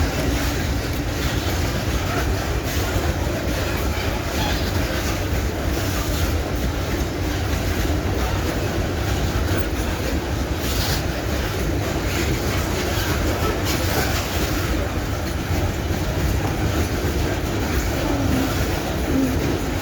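Freight train wagons rolling past with a steady rumble of steel wheels on rail and occasional clacks as the wheels cross rail joints.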